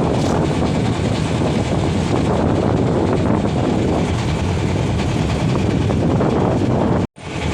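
Loud, steady rumbling noise of a moving vehicle, broken by a sudden moment of silence near the end.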